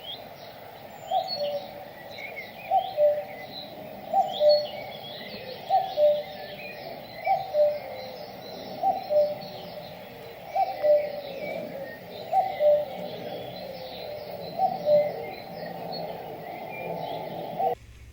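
Birds calling: one bird repeats a short two-note call about every second and a half, a rising note then a lower one, and smaller birds chirp higher up. It all stops abruptly near the end.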